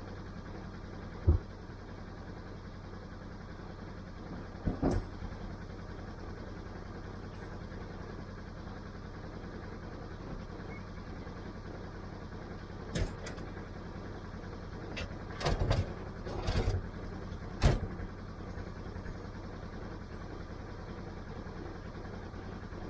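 An engine idling steadily under scattered sharp knocks and clanks: one loud knock about a second in, a pair near five seconds, and a cluster of several more in the second half.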